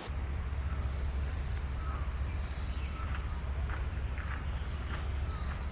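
Insects calling: a steady high buzz with a short high chirp repeated evenly about twice a second, over a low steady hum.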